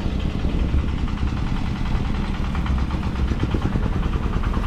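An engine idling steadily, with a rapid, even running rhythm.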